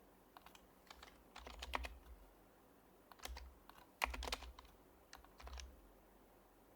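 Typing on an HHKB Professional HYBRID Type-S keyboard, its silenced Topre capacitive keys clacking softly in short runs of keystrokes separated by pauses. The keys go quiet near the end.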